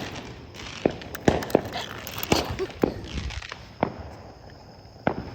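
Fireworks going off: a run of sharp, irregular bangs and cracks, about seven in five seconds, with a hissing crackle between them in the first few seconds.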